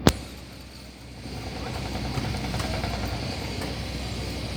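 A single sharp click just after the start, then a steady low rumble of outdoor background noise that grows a little louder from about a second in.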